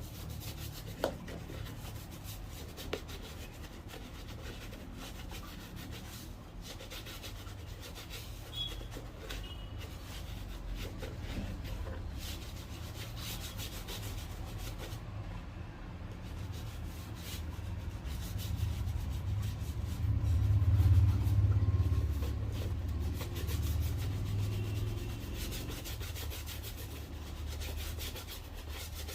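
Repeated rubbing and scrubbing strokes on a shoe, the scratchy sound of a brush or abrasive worked over leather and sole. A low rumble swells for a few seconds about two-thirds of the way in.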